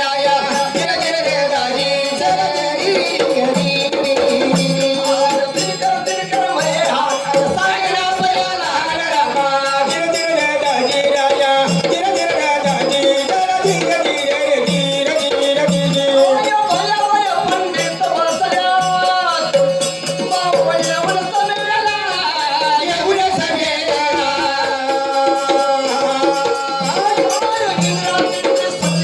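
Marathi Kalgi folk music: a melody bends over a steady held drone, with regular drum beats and a shaking rattle.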